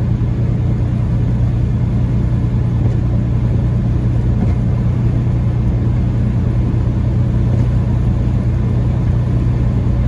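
Steady low drone of a Peterbilt 579 semi-truck's diesel engine and tyre and road noise, heard from inside the cab while cruising at about 40 mph with a heavy load.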